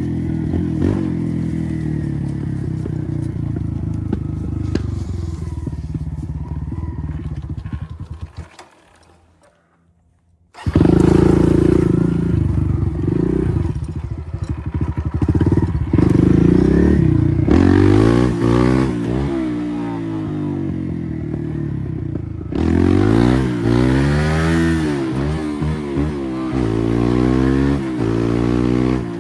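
Kawasaki KLX140R F dirt bike's small air-cooled four-stroke single engine running, dropping out for about two seconds around nine seconds in and then returning abruptly. In the second half it is revved up and down again and again.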